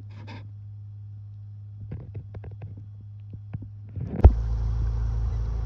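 Steady low motor hum with scattered clicks and knocks; about four seconds in, a sharp thump and the motor gets much louder and keeps running.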